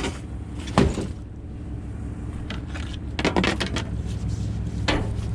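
Scrap aluminum being handled: a few short clanks and knocks, about a second in, a cluster around three seconds in, and one near the end, over a steady low engine hum.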